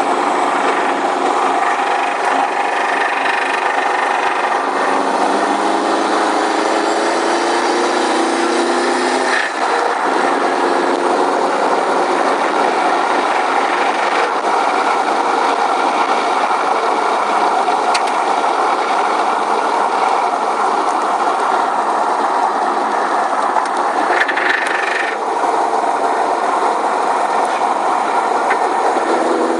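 Subaru WRX's turbocharged flat-four engine running under way, its pitch climbing then breaking off about nine seconds in and shifting again near twenty-five seconds. The engine has a rod knock, the sign of a failing connecting-rod bearing.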